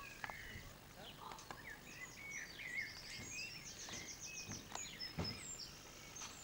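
Small birds singing, faint: a scatter of short high chirps and whistled notes with a quick trill in the middle, and a few soft clicks.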